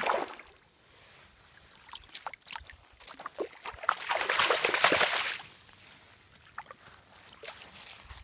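Water splashing and sloshing, with a brief splash at the start, scattered small clicks, and a louder stretch of splashing for about a second and a half in the middle.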